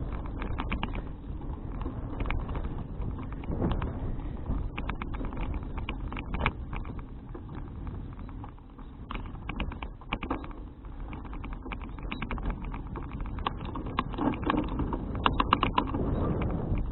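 Wind buffeting an action camera's microphone and road rumble from a folding bicycle being ridden, with recurring bursts of rapid ticking and rattling from the bike, the loudest near the end.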